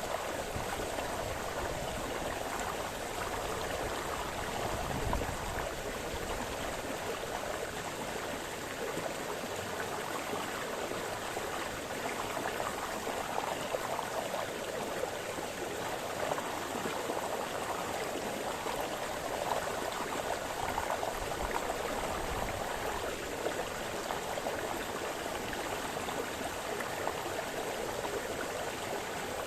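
Small forest brook splashing and babbling over stones, a steady rush of running water with small irregular splashes.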